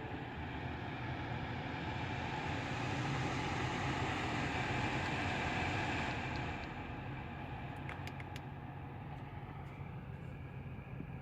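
BMW 650i Gran Coupe's 4.4-litre twin-turbo V8 running just after start-up. Its sound swells and then eases down about six seconds in to a steadier, quieter idle. A few light clicks come near eight seconds.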